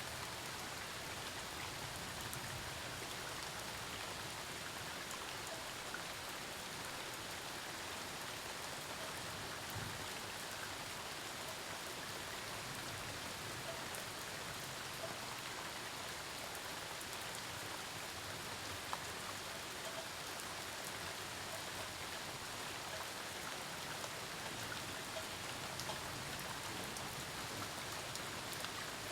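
Steady rain falling on surfaces during a storm, an even hiss with scattered individual drop ticks.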